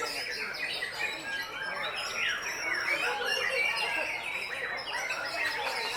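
Many white-rumped shamas singing at once: a dense, continuous tangle of overlapping whistled phrases and quick pitch glides.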